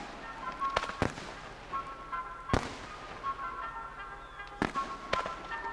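Fireworks going off in about five sharp single bangs, two of them close together near the start. Music with held notes plays underneath.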